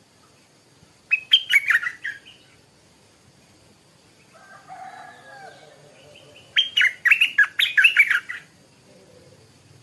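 Stripe-throated bulbul singing two short bursts of quick, liquid, bubbling notes, one about a second in and a longer one past the middle.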